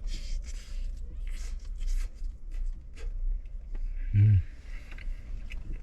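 Someone eating chicken at close range: a run of short, noisy chewing and mouth sounds with small clicks, and a brief hummed "mm" about four seconds in.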